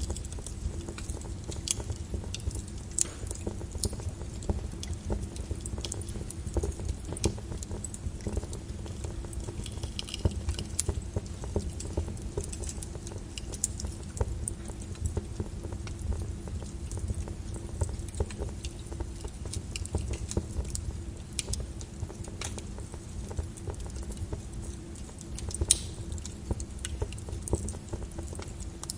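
A lava flow crackling and clinking irregularly, with scattered sharper cracks, over a steady low rumble.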